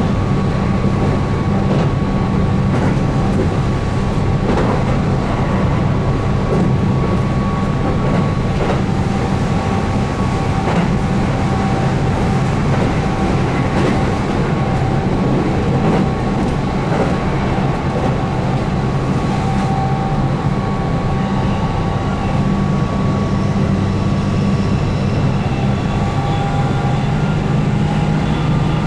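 Keihan 8000 series electric train running at speed, heard from inside the car: a steady rumble of wheels on rail with a held whine from its DC traction motors under field-added excitation control, and a few light rail-joint clicks.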